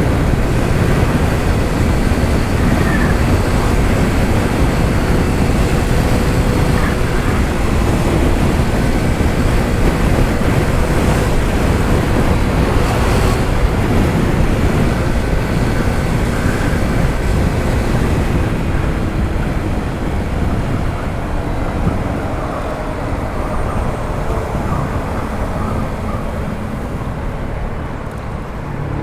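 Wind rushing over the microphone with road noise and the drone of a Honda ADV 160 scooter's single-cylinder engine while riding. The rush eases from about two-thirds of the way through and dips near the end as the scooter slows.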